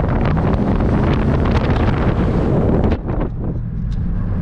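Wind buffeting the microphone in a moving car, a loud rushing noise that drops off sharply about three seconds in, with the car's engine running underneath.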